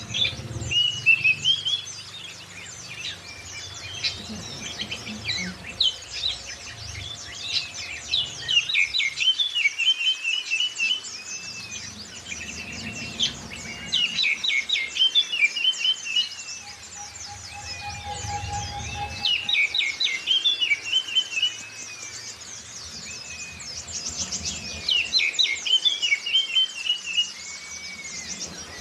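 Recorded song of an oriental magpie-robin mixed with white-eye calls, used as a lure track for pet magpie-robins. Each phrase is a burst of sharp, quick notes that runs into a warble, and the phrases return about every five to six seconds.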